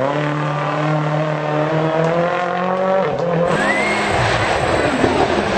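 Rally car engine held at high revs, nearly steady, with a brief lift off the throttle about three seconds in. About half a second later the sound switches abruptly to a rougher, noisier engine with a short rising whine.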